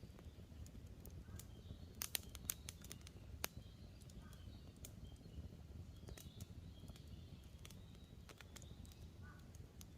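Wood campfire crackling, with scattered sharp pops that are loudest around two to three and a half seconds in, over a low steady rumble. Faint small birds chirp in the background.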